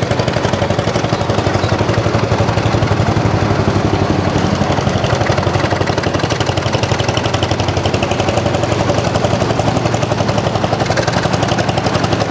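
Vintage tractor engine running steadily with an even, pulsing beat.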